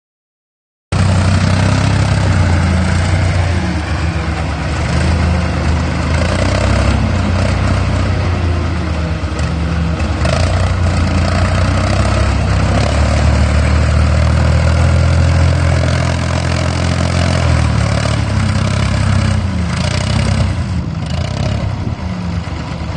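A motor vehicle's engine running loudly, cutting in abruptly about a second in, its pitch rising and falling a little as it revs.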